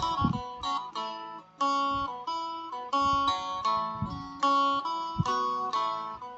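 Phin, the northeastern Thai plucked lute, played as a sound test after new frets were fitted: a quick melody of plucked notes over a steady drone.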